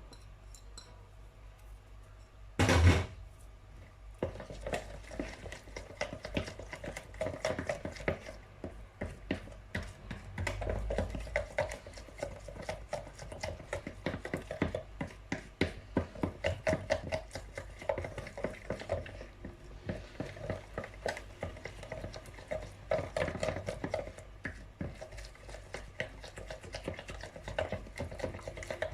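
Cake batter being mixed by hand: a utensil clinking rapidly and steadily against the mixing bowl, stirring in the lemon zest. A single loud knock comes about three seconds in, just before the stirring starts.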